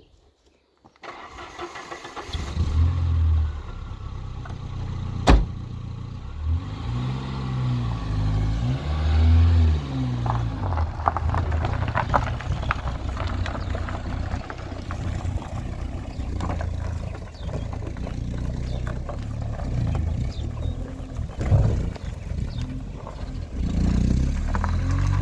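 A car engine running as the car pulls away, its pitch rising and falling a few times as it revs. It comes in about a second in, and there is one sharp knock about five seconds in.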